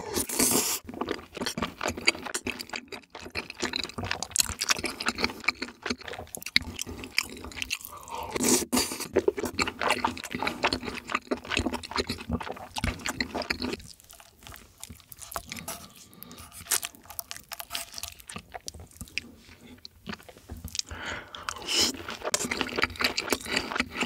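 Close-miked wet chewing of a big mouthful of chewy tteokbokki rice cakes in sauce, with irregular squishy, crackly mouth sounds. It eases off for a few seconds around the middle, then picks up again.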